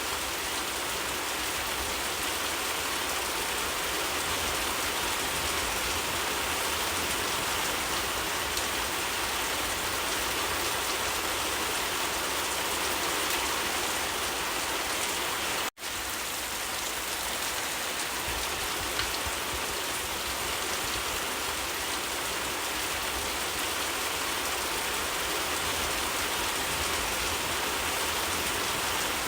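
Steady rain falling, an even hiss of rainfall that cuts out for an instant a little over halfway through.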